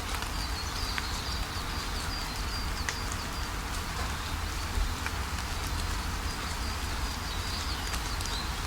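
Steady rain falling, with scattered sharp drop ticks. A small bird chirps in a quick run of short, high notes for the first few seconds and again near the end.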